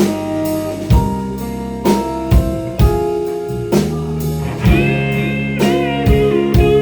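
Live rock band playing an instrumental break: drum kit keeping time under held chords, with an electric guitar lead of bent, wavering notes coming in about two-thirds of the way through.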